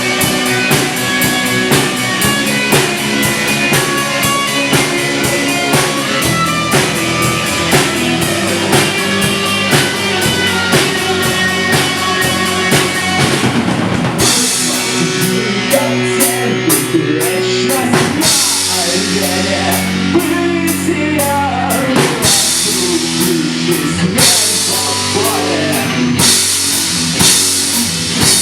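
Live rock band playing an instrumental passage with drum kit, guitar and bass. About halfway through the cymbal wash thins out, and a wavering melodic line with pitch bends comes forward.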